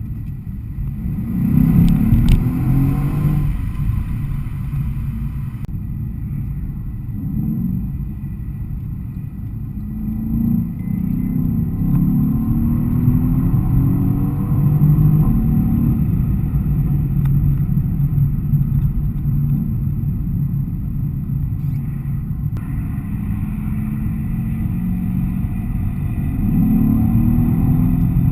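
Mercedes-AMG E63 S 4Matic's twin-turbo V8 accelerating hard, its engine note climbing in pitch and dropping back several times as it runs up through the gears.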